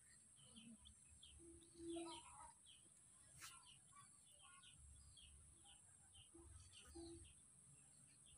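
Near silence with faint bird calls: quick repeated chirps throughout, and a low two-note hoot twice, about two and seven seconds in.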